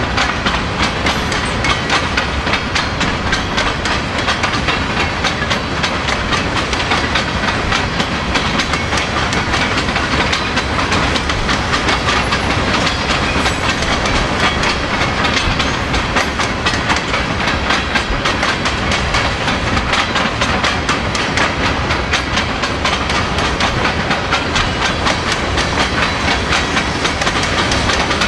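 Freight train cars rolling past at speed: a steady, loud clatter of steel wheels on the rails with many rapid clicks.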